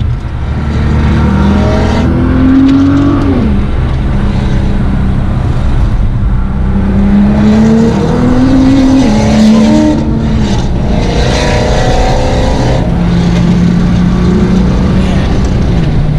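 Audi R8 V8 with an Armytrix titanium exhaust driven hard on a racetrack. The engine note climbs under acceleration and drops at each gear change, about three times, between stretches of steady running.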